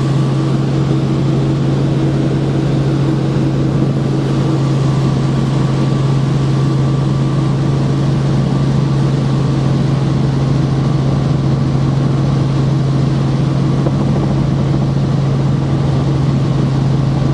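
Helicopter in flight heard from inside the cabin: the rotor and turbine make a loud, steady drone with one strong low hum and a rushing noise over it, unchanging throughout.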